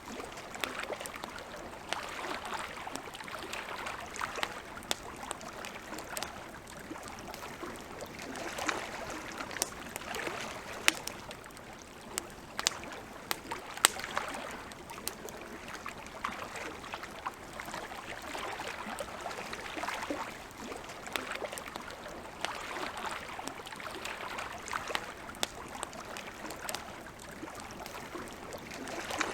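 Campfire crackling with sharp, irregular pops and snaps, over a soft wash of lake water lapping that swells and fades every few seconds.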